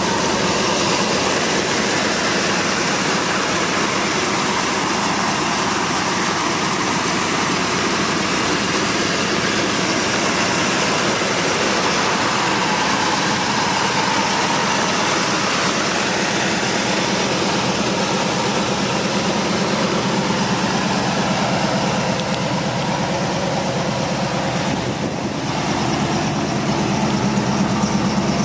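Ford 289 V8 of a 1966 Mustang GT idling steadily.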